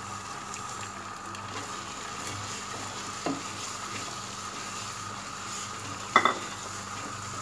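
Suji halwa sizzling in ghee in a pan as sugar is poured in and stirred through with a silicone spatula, the sugar going in once the ghee has begun to separate at the sides. A short sharp knock about six seconds in.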